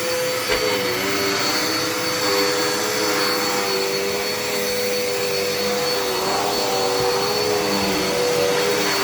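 Dirt Devil Endura Reach upright vacuum cleaner running steadily: a constant motor hum and hiss, with a second tone that wavers slightly in pitch.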